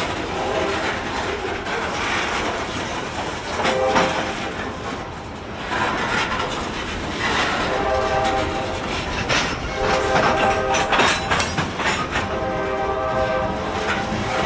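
Covered hopper cars of a freight train rolling past, wheels clattering and rumbling on the rails. A chord-like horn sounds several times: a short blast about four seconds in, then three longer ones.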